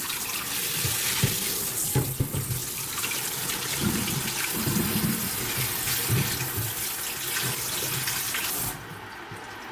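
Tap water running into a sink, with a few knocks from things handled under the stream. The water cuts off near the end.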